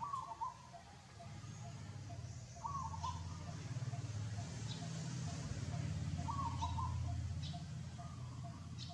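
Short animal calls, four of them, a couple of seconds apart, over a steady low hum and a fainter, regular chirping.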